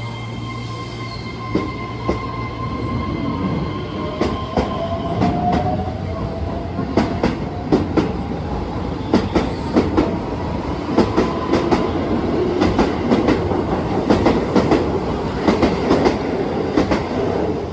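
Keihan 3000 series electric train pulling out of the station: the traction motors' whine rises in pitch over the first several seconds, then the wheels clack over rail joints faster and faster as the cars go by.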